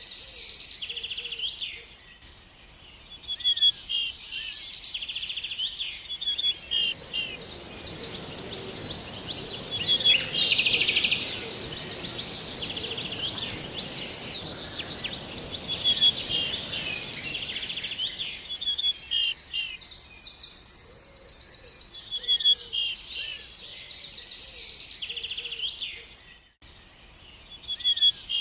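Several songbirds chirping and singing with quick, repeated trills. From about six seconds in to about nineteen seconds a steady rushing noise and a thin high hiss sit under the birdsong, then fade.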